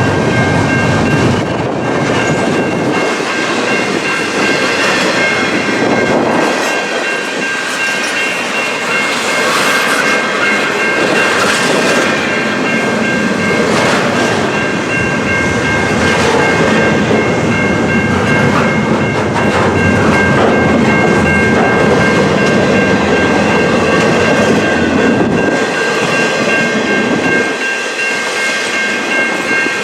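Freight train cars rolling past on the rails, wheels clicking over the rail joints, with a steady high-pitched whine held throughout.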